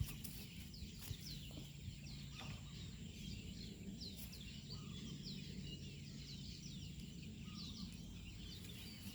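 Small birds chirping all through, a busy run of short, quick falling chirps, over a low steady rumble, with a few faint clicks.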